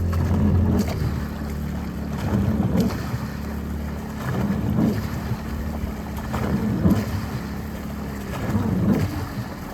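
A boat's engine running steadily with a low hum, mixed with gusts of wind buffeting the microphone and water moving at the shore.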